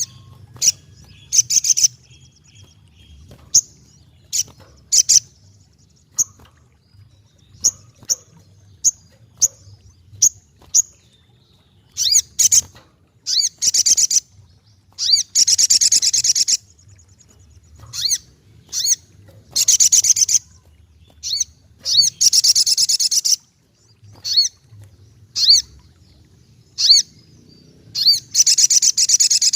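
Little spiderhunter (sogok ontong) singing: sharp, high single chirps repeated at irregular intervals, broken by several rapid chattering trills of one to two seconds each.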